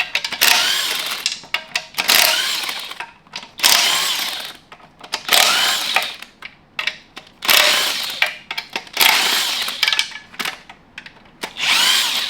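Handheld power tool run in about seven short bursts, each around a second long with brief pauses between, as a transmission is being taken apart.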